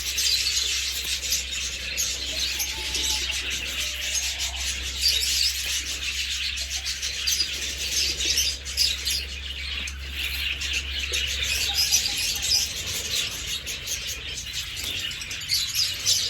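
Many small cage birds chirping continuously in a dense, overlapping chorus of rapid high chirps.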